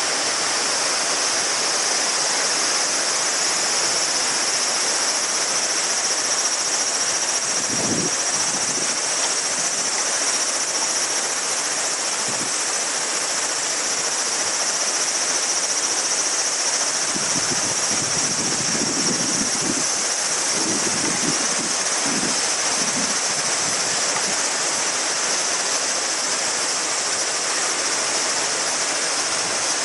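A river stream rushing and babbling steadily under a dense chorus of summer cicadas, which makes a constant high, shrill band over the water. A faint low rumble comes and goes around the middle.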